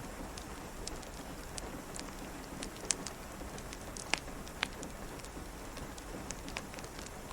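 Steady rain hiss with the scattered sharp pops and crackles of a wood fire in a fireplace, a dozen or so irregular snaps, the loudest about three and four seconds in.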